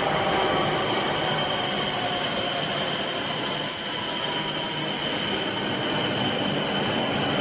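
E7/W7-series Shinkansen high-speed train pulling into an underground station platform: a loud, steady rumble and rush of the passing cars with a high, steady whine over it.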